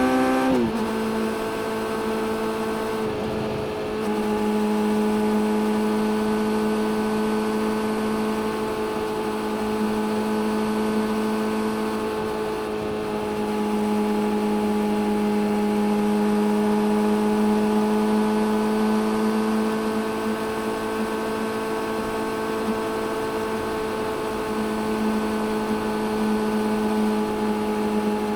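Suzuki GSX600F's inline-four engine on the move, its note dropping sharply under a second in and dipping again around three seconds in, then running at a fairly steady pitch for the rest of the stretch.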